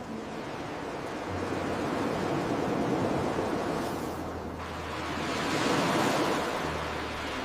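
Ocean surf: waves rushing in, swelling louder about three seconds in and again around six seconds.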